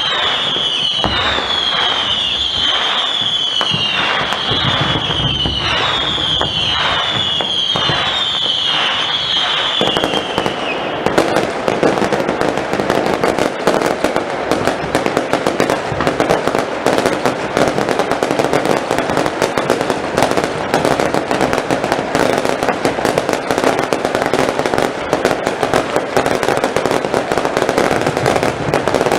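Firework display: a run of whistling fireworks, a falling whistle about once a second, each with a crack. About ten seconds in, these give way to a dense, continuous crackle of many small bursts.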